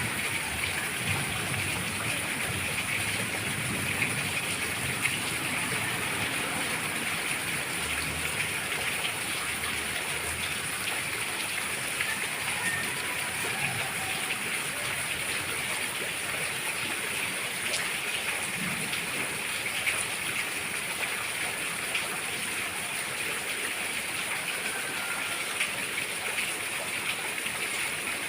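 Steady rainfall, a constant hiss of rain with scattered individual drop ticks.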